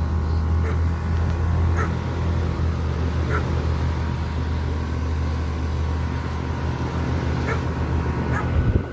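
2026 Lennox heat pump's outdoor unit running in cooling mode: a steady low hum from its compressor and condenser fan. A dog yips briefly about five times in the background.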